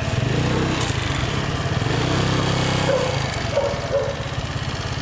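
Vehicle engine running steadily with an even low firing pulse, as the vehicle is being moved up.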